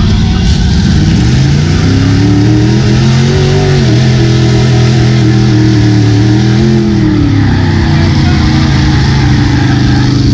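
Truck engine revving hard and held at high revs under load, its pitch sagging and climbing back twice as it pulls.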